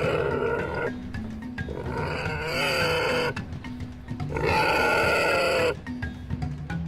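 A domestic pig calling three times, each rough call lasting a second or more, over background music with steady low notes.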